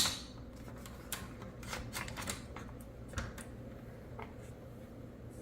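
Faint, irregular clicks and taps of plastic dishwasher top rack adjuster parts being handled and fitted onto the wire rack.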